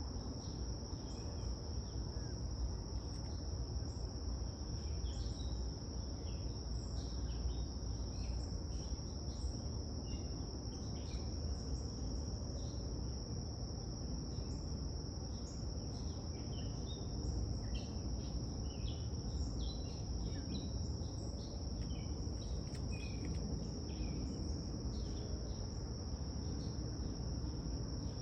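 Steady high-pitched trill of crickets, with many short bird chirps scattered over it and a low outdoor rumble beneath.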